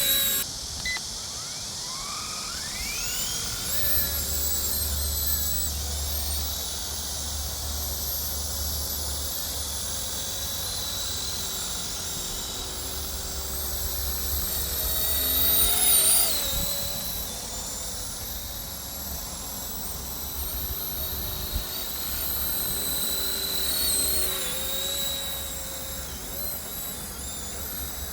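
RCERA C190 H145 1/30-scale RC helicopter's electric motors and rotors whining in flight. The whine wavers up and down in pitch as the throttle changes and is loudest about halfway through.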